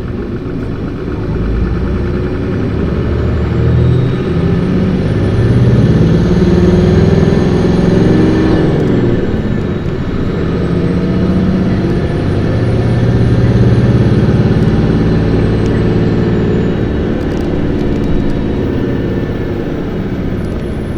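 Isuzu Erga PKG-LV234Q2 city bus diesel engine heard from inside the bus, revved hard under acceleration. The engine note climbs for several seconds, drops briefly at a gear change about nine seconds in, then climbs through the next gear before easing off near the end. A thin high whine rises and falls with the revs.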